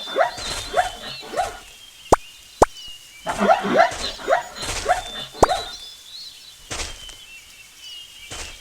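An animal calling in two quick runs of short yelps, each falling in pitch, with a few sharp clicks in between.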